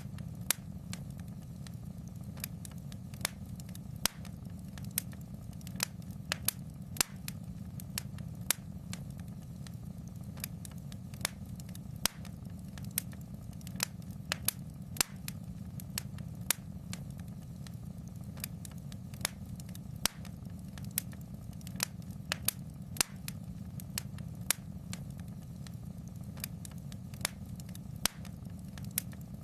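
Fire crackling in a fireplace: irregular sharp pops and snaps, about one or two a second, over a steady low rumble.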